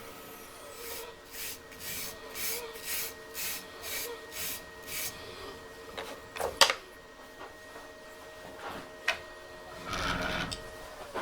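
Threading jig's cutter cutting threads into a wooden tenon: a steady motor hum under a run of rasping cuts, about two a second, as the wood passes the cutter, followed by a couple of sharp clicks and a rougher scrape near the end. The wood is chipping as it cuts.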